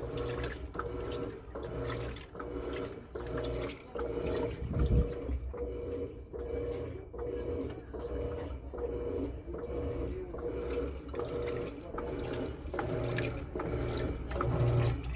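Electrolux Turbo Economia 8.5 kg top-loading washing machine agitating: water sloshing with motor hum, in a steady rhythm as the agitator reverses every half second or so. A low thump comes about five seconds in.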